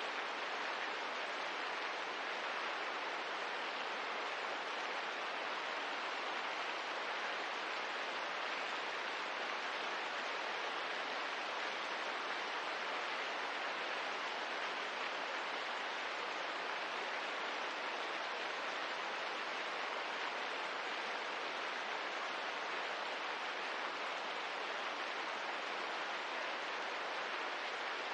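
Steady rain ambience: an even, unbroken hiss with no separate drops or fire crackles standing out.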